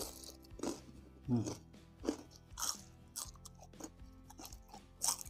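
Close-up crunching and chewing of a crispy deep-fried battered snack, with a sharp crunch every half second to a second, over soft background music.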